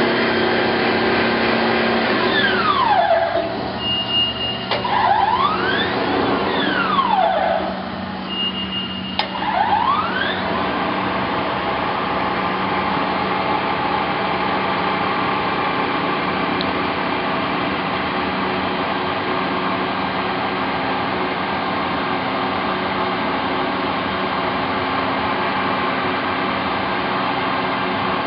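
Wysong power shear's 10-horsepower motor running with a steady hum. From about two seconds in, a siren wails, falling and rising in pitch several times, then fades out after about ten seconds.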